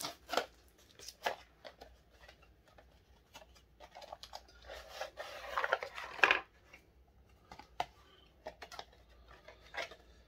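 Hands handling a cardboard product box and its contents: scattered light knocks and clicks, with a longer rubbing, sliding noise about halfway through.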